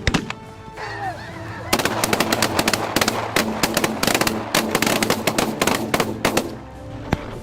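Rapid, repeated shotgun blasts, with Canada geese honking about a second in, over background music.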